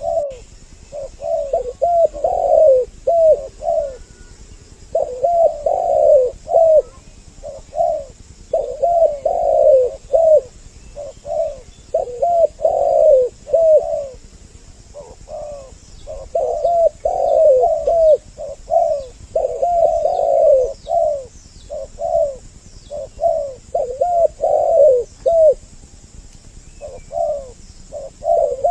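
Spotted doves cooing in repeated phrases of several coos each, separated by short pauses, in a lure recording that carries two birds calling, male and female. Faint high chirps from a small bird sound in the middle.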